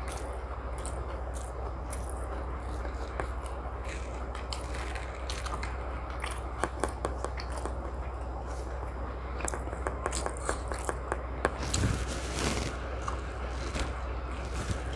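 A person eating chicken biryani and tandoori close to the microphone: chewing, with many short sharp clicks and scrapes that come thickest around the middle and about two-thirds in. A steady low hum runs underneath.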